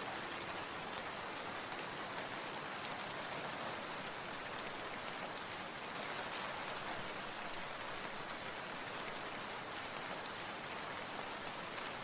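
Steady rain falling: an even hiss of many small drops that holds constant, without let-up or change.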